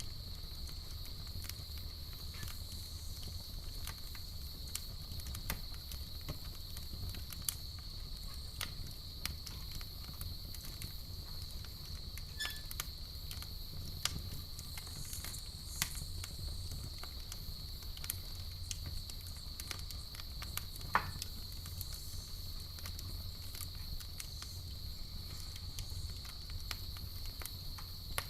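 Campfire crackling, with scattered sharp pops and one louder pop about three quarters of the way through, over a steady high-pitched chorus of crickets and a low rumble.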